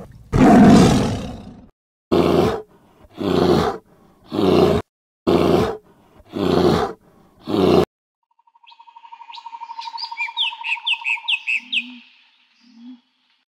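A large animal roars, a long roar followed by six shorter roars about a second apart. After that a songbird sings: a fast, even trill, then a string of quick downward-sliding chirps.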